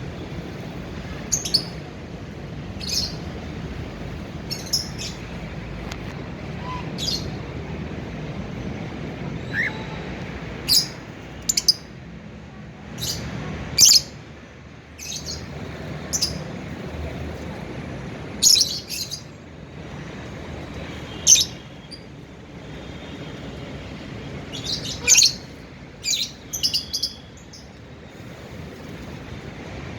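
Cockatiel giving short, sharp chirping calls, a dozen or so at irregular intervals, over a steady low background hum.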